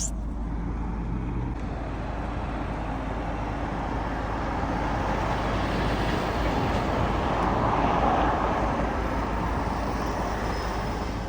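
Road traffic: a steady low rumble with a passing vehicle that grows louder toward the middle and eases off near the end.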